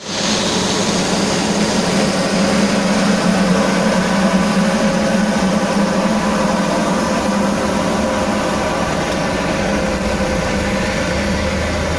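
A vehicle engine running steadily, a constant drone that holds the same pitch and level throughout.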